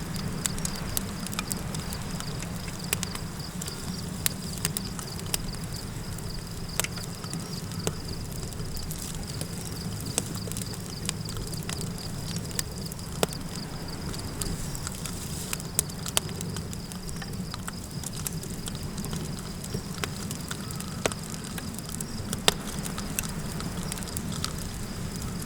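Campfire crackling, with scattered sharp pops over a steady low rumble, and a constant high insect trill, like crickets, running underneath.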